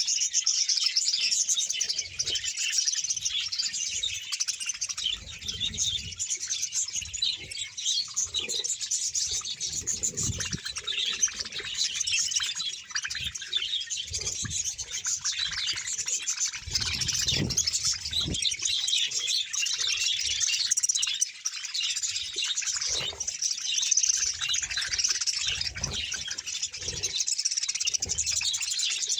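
A large colony of budgerigars chattering and chirping continuously, many birds at once in a dense, unbroken warble, with occasional low bumps underneath.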